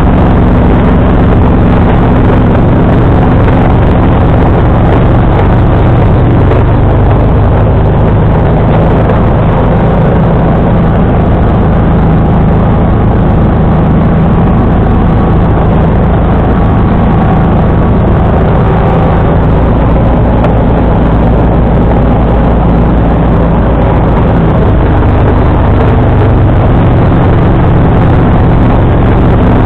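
John Deere 445 garden tractor's engine running steadily under load while powering a front-mounted snowblower, its pitch shifting slightly now and then.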